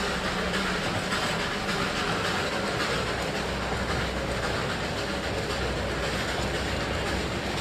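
Darjeeling Himalayan Railway narrow-gauge toy train running along the track: a steady rumble of wheels on rail over a constant low hum.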